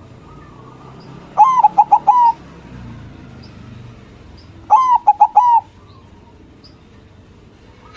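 A white zebra dove (perkutut) sings its cooing song twice, each phrase a quick run of four or five loud, clipped, bubbling notes, the two about three seconds apart.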